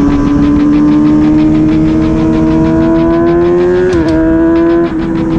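Suzuki GSX-R600 inline-four engine running at high revs on track, its pitch rising slowly as the bike accelerates. About four seconds in the pitch dips briefly, then holds steady.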